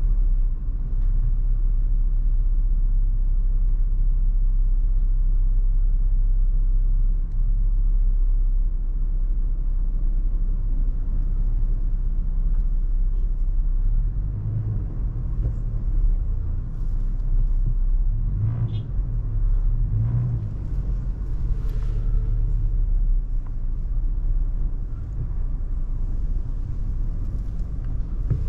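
Toyota FJ Cruiser driving in heavy wind: a steady low rumble of road and wind noise, with a few short low swells around the middle.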